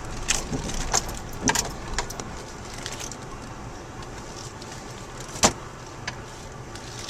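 Car cabin noise from a car being driven, a steady low rumble. Scattered clicks and knocks come through it, the sharpest about five and a half seconds in.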